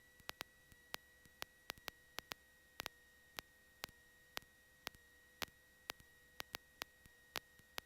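Near silence broken by faint irregular clicks, a few a second, over a faint steady high tone, like static ticking on an electronic audio line.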